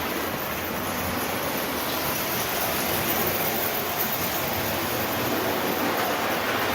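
Lionel 390E standard gauge toy train running on its track with a string of 516 coal hoppers: a steady whir and rumble of the motor and the wheels on the rails.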